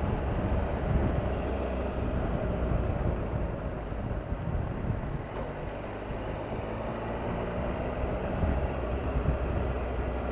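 Triumph Tiger 1200's three-cylinder engine running steadily as the motorcycle rides along, mixed with an even rush of wind and road noise.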